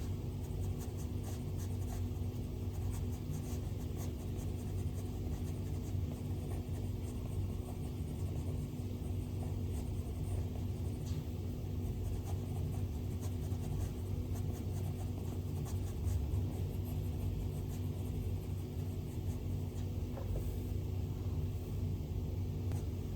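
Stylus strokes and light taps on an iPad's glass screen: faint, scratchy ticks that keep coming while drawing. Under them runs a steady low hum.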